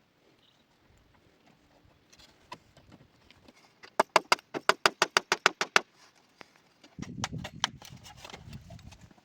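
A fast, even run of about sixteen sharp knocks, roughly nine a second, lasting under two seconds, followed a second later by a low rough scraping rumble with a few clicks.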